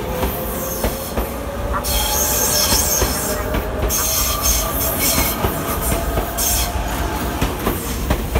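Tobu 100 series Spacia electric train rolling past the platform, its wheels clicking over rail joints with a low rumble. A faint motor whine slowly rises in pitch, and a high screech from the wheels comes and goes in the middle of the passage.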